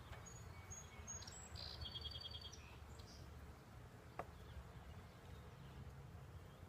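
Faint steady hum of a honeybee colony from the open hive, with a small bird chirping and giving a quick trill in the first few seconds and a single light click about four seconds in.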